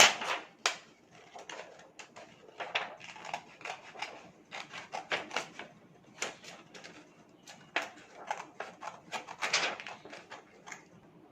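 Scissors cutting through a thin plastic sheet: a long run of irregular short snips and crackles, loudest right at the start.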